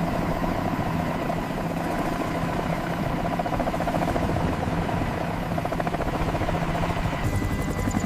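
A steady engine drone with a fast, even pulsing beat, easing off near the end.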